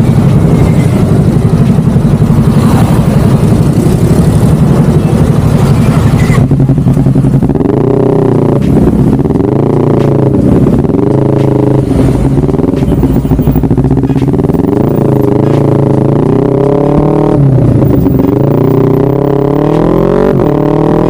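Motorcycle running through an aftermarket DST exhaust. About six seconds in the sound changes to repeated rises and falls in pitch over a steady low note.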